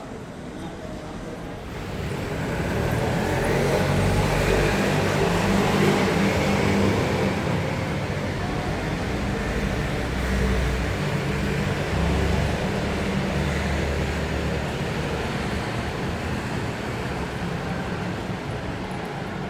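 City street traffic: a road vehicle passes close by, its low engine hum and road noise swelling about two seconds in, peaking a few seconds later and then slowly fading into the general traffic noise.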